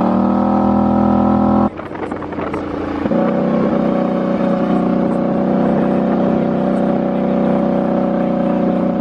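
Vehicle engine running at a steady pitch. About two seconds in it cuts off suddenly, a rough rumbling noise follows for a second or so, then the steady engine note returns.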